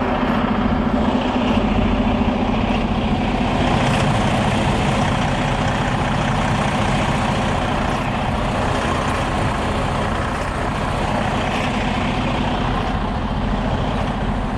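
Heavy diesel truck engine running steadily at a low idle.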